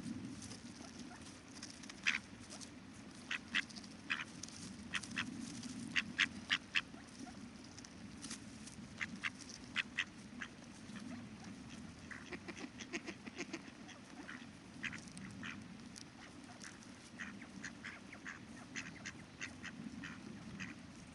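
Ducks quacking in many short calls, coming thick and fast, over a steady murmur of river water.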